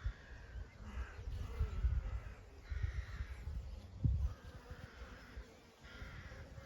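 A crow cawing several times, short harsh calls about a second apart, over the buzzing of honey bees in a summer field.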